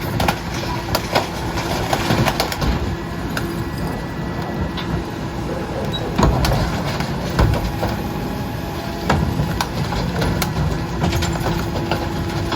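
Heil rear-loader garbage truck running, a steady engine hum with a held mechanical tone, broken by several sharp clanks and knocks.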